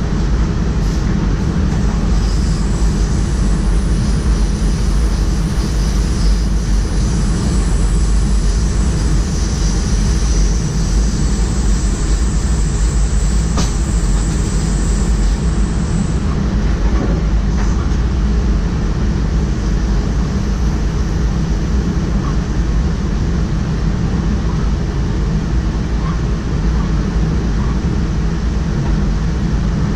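DDAR double-deck electric train running steadily along the track, heard from inside the driver's cab: a constant rumble and rail noise. A faint high whine runs through the first half and stops about sixteen seconds in, with a single click shortly before.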